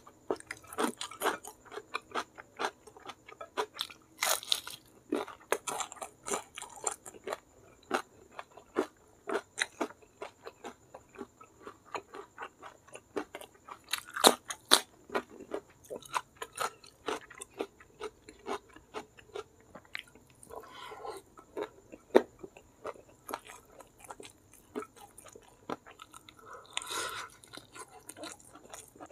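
Close-up eating sounds: wet chewing and lip-smacking on curried goat meat and rice, with several loud crunchy bites, one of them into a raw green vegetable about 14 seconds in.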